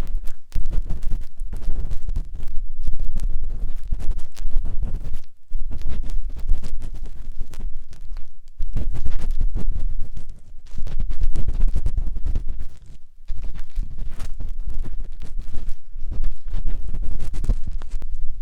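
Matchstick scraping and rubbing inside the silicone ear of a 3Dio binaural microphone: close, dense scratching with deep rumbling thuds, stopping briefly a few times.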